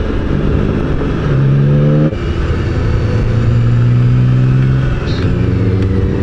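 BMW motorcycle engine running under way, with wind noise. The engine note rises, drops abruptly about two seconds in, then holds steady.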